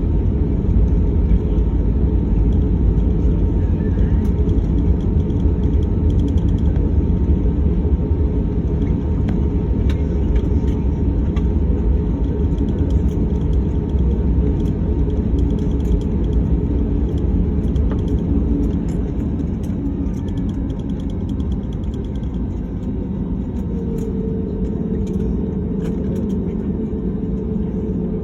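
Airliner's engines running, a steady low rumble that eases slightly in the second half. Near the end a steady higher hum joins in.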